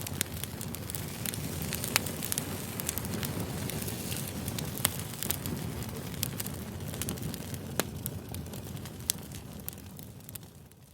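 Campfire burning: a steady low rumble of flames with a few sharp crackling pops of wood, fading out near the end.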